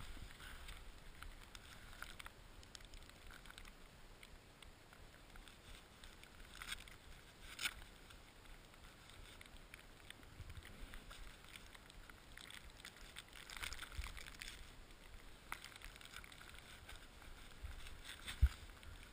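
Skis sliding over snow: a faint steady hiss with a few short scrapes, and one low thump near the end.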